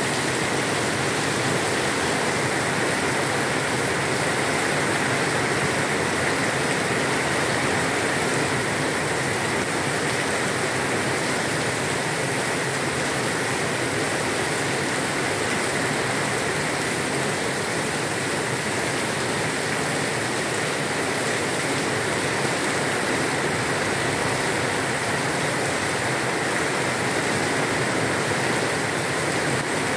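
Heavy rain pouring down steadily on leafy trees, an even, unbroken hiss.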